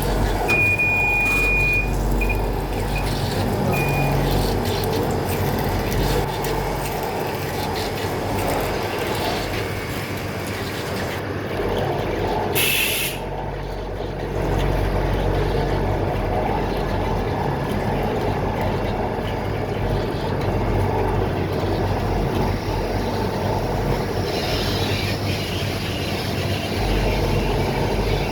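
Electrical discharge machine (EDM) sparking while cutting a toy tire mold, a steady noise. About half a second in there is a high steady beep, followed by a few short beeps.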